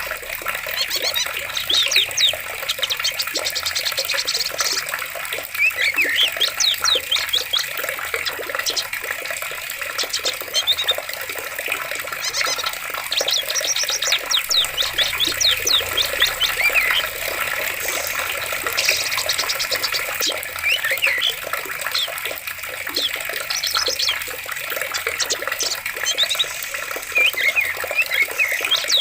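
Running water splashing steadily under a chorus of songbirds, with many short chirps and fast trills all through.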